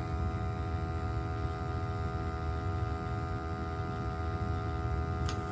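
Gas-fired hot water boiler with its burner firing: a steady low rumble with a steady hum over it, and a light click near the end. The plumber takes the mismatched combination gas valve for the cause of the poor combustion, as it is not opening right to make the mixture.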